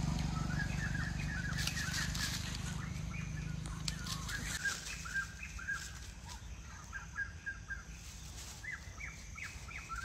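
Bird chirping in runs of short, quick notes, with scattered clicks and a low rumble that fades away over the first few seconds.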